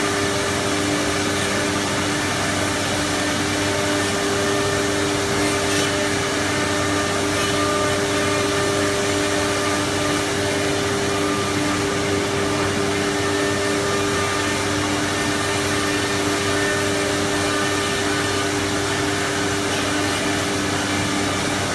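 A CNC router with an automatic tool changer running steadily: a constant machine whine holding a few fixed pitches over an even hiss.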